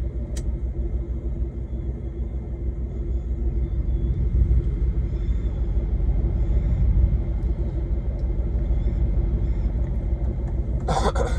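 Semi-truck engine and road noise heard from inside the cab while driving: a steady low drone that grows a little louder in the middle. A single short click comes near the start.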